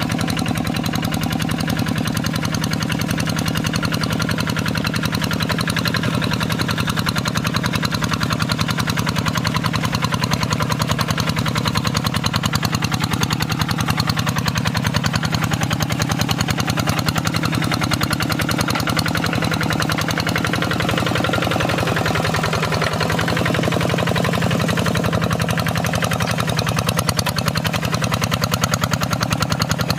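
Single-cylinder Kubota RD85DI-2S diesel engine of a Quick G3000 hand tractor running steadily, with a fast, even diesel knock.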